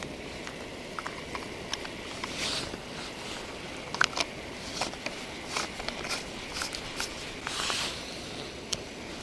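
Handling clicks, taps and scrapes of a portable espresso maker being loaded with ground coffee and put together, with a couple of short hissing swells.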